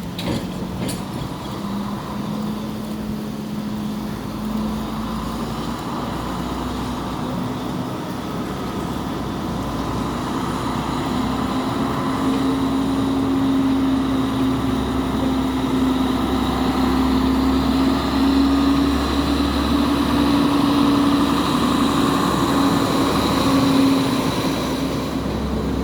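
Diesel multiple unit train's engine running steadily, its pitch and loudness rising about ten seconds in as it is throttled up. A couple of short clicks right at the start.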